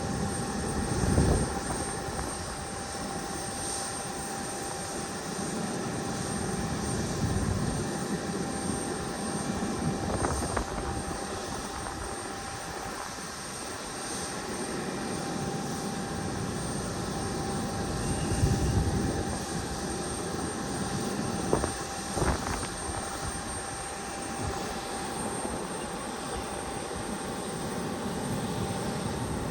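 Aircraft engines running steadily, a constant whine held over a steady rushing noise. Low rumbling gusts of wind hit the microphone every several seconds, the strongest about a second in and again past the middle.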